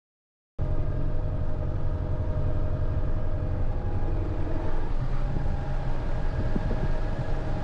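A tractor engine running steadily at an even speed. It comes in suddenly about half a second in, after a brief silence.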